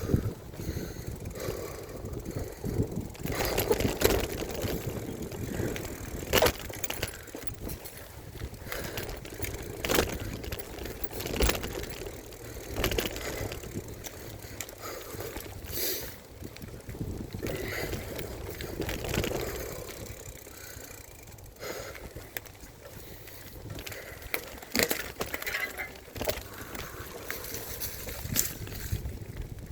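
Mountain bike ridden over a rough dirt trail: tyres on the ground with frequent irregular knocks and rattles as the bike takes bumps, picked up through a handlebar-mounted phone.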